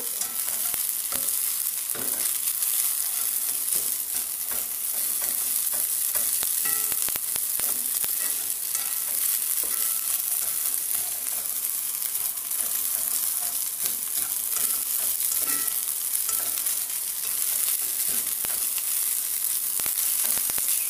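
Fried rice sizzling in a nonstick wok while being stirred and turned with a plastic spatula: a steady high hiss with scattered scraping clicks from the spatula on the pan. The rice is almost cooked.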